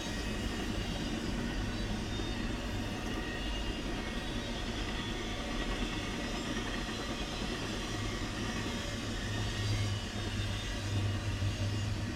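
CSX double-stack intermodal train's loaded container well cars rolling past, a steady running noise of steel wheels on the rails.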